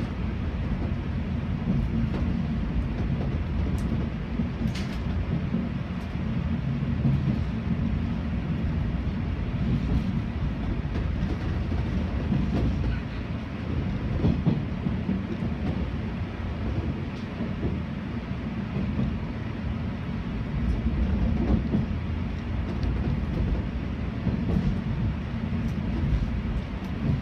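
Running noise inside the driver's cab of a 485-series electric train on the move: a steady low rumble of wheels on rail, with a few faint clicks.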